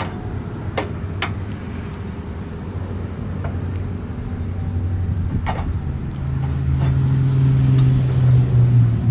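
An engine running with a steady low hum that rises in pitch and gets louder about six seconds in, with a few sharp clicks over it.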